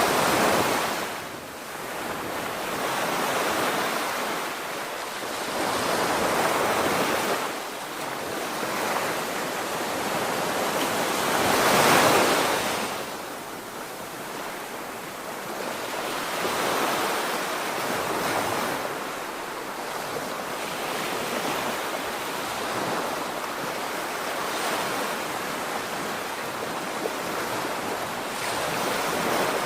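Sea waves breaking on the shore, surging and receding every few seconds, the largest swell about twelve seconds in.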